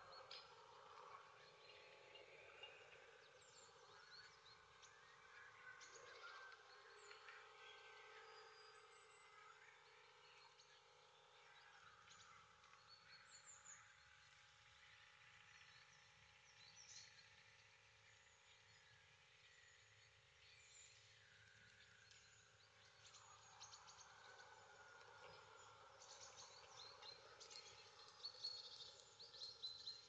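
Faint outdoor ambience with scattered short bird chirps and calls throughout, all quiet.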